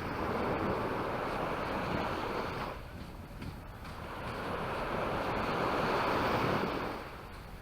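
Sea waves breaking and washing up the beach, two surges of surf noise, the first fading away just under three seconds in and the second building and falling off near the end.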